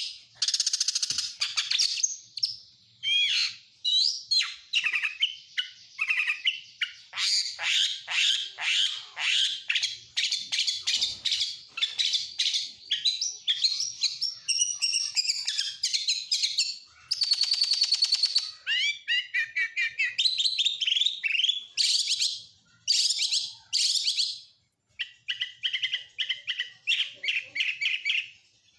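Oriental magpie-robin (kacer) singing a long, varied song of rapid whistles, trills and chatters, worked through with imitated phrases of other birds such as lovebird, canary and prinia. A buzzy rasping phrase comes about 17 seconds in, and there are brief pauses around then and again near 24 seconds.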